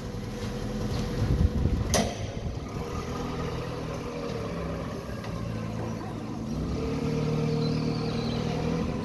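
Forklift engine running, picking up revs about two-thirds of the way through, with one sharp knock about two seconds in.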